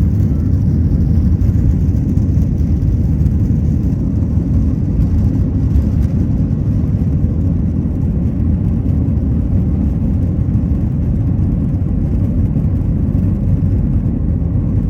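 Steady, loud low rumble of a Boeing 737-900ER's cabin, with engine and airflow noise heard from a window seat. It holds an even level with no change.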